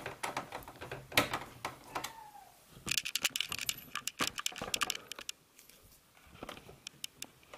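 Screwdriver and small screws working in the computer's metal chassis: scattered sharp clicks and rattles, with a quick run of clicks about three seconds in.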